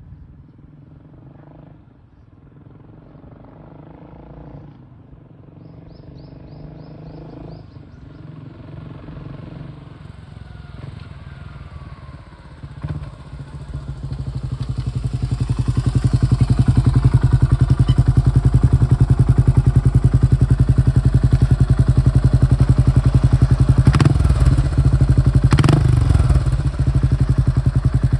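Yamaha SR400's single-cylinder engine running through an aftermarket VCT Type S muffler: faint at first, then growing much louder over a few seconds about halfway through into a loud, steady, fast exhaust beat, with two brief revs near the end.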